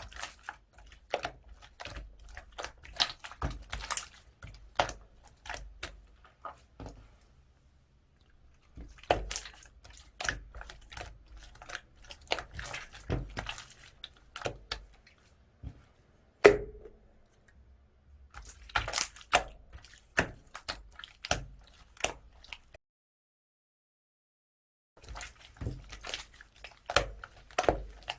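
Clay-mixed slime being squeezed and stretched by hand, making runs of small sticky clicks and pops with a few short pauses, and one sharper pop about halfway through.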